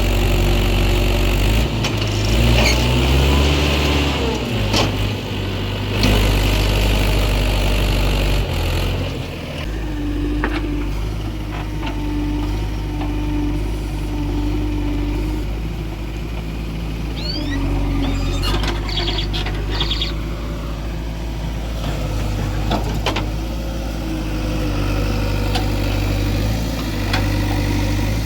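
Diesel engines of a JCB 3DX backhoe loader and a tractor running, revving up and down about two to five seconds in, with scattered metal clanks and knocks. A short tone repeats about once a second for several seconds midway.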